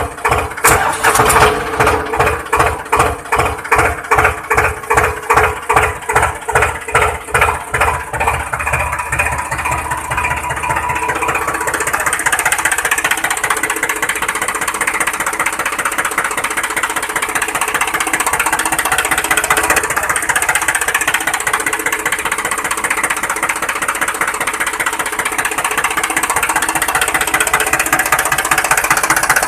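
An engine running with slow, even chugs, about two or three a second. After about eight to ten seconds it picks up into a faster, steadier run with more hiss.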